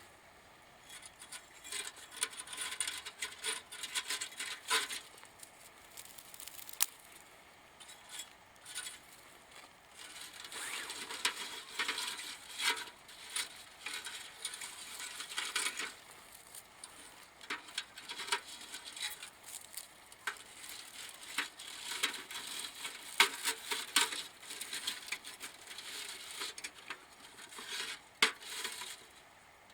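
Irregular light clinks, clicks and rustles of things being handled, in three bouts with short pauses between them.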